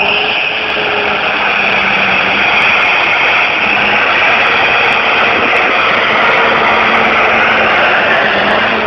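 Engine of a tractor-pull vehicle running loud and steady, an even roar with no breaks or changes in pitch.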